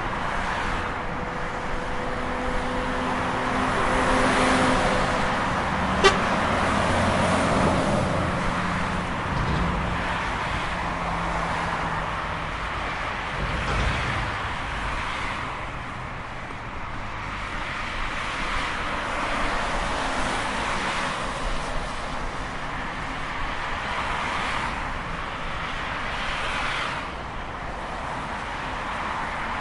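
Heavy trucks passing on a highway: steady tyre and engine noise that swells and fades as each vehicle goes by. A vehicle horn sounds in the first few seconds, and there is a sharp click about six seconds in.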